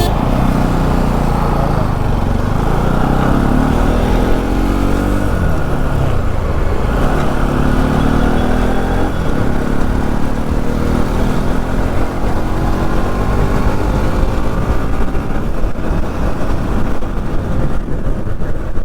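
Motorcycle engine accelerating through the gears, its pitch rising and dropping back several times, over steady riding wind noise on the helmet-camera microphone.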